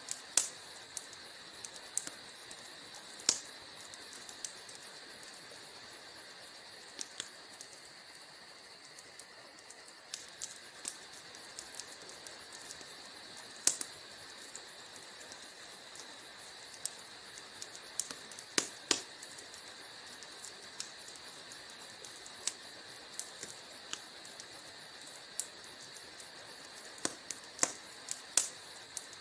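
Wood fire in a fireplace crackling: irregular sharp pops and snaps over a steady high hiss, with the biggest pops a few seconds apart.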